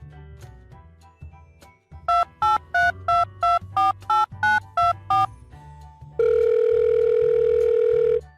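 Telephone keypad dialling tones: about ten quick, even beeps, each two notes at once, followed by one steady tone for about two seconds, over background music with a steady beat.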